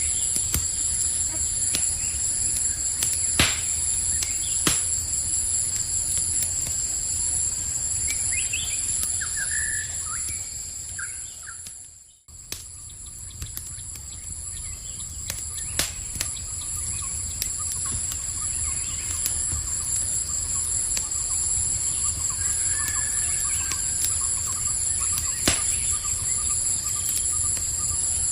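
Campfire crackling, with a low rumble and a few sharp pops, over a steady high-pitched trilling of night insects; a few short bird chirps come and go. About twelve seconds in, the whole sound fades nearly out and swells back within about a second.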